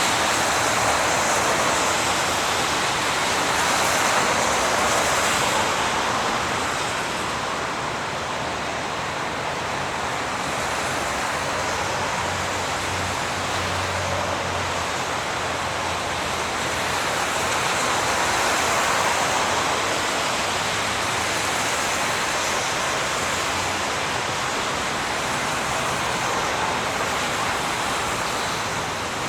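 Steady rush of highway traffic, tyre and engine noise blending into a continuous roar that swells and eases gently as vehicles pass.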